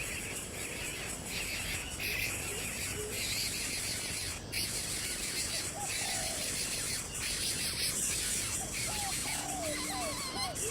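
Outdoor nature ambience: a steady insect buzz, with a run of short, repeated bird chirps starting about halfway through.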